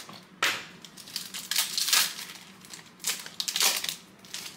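A trading card pack's wrapper being torn open and crinkled, in a string of irregular crackling rustles.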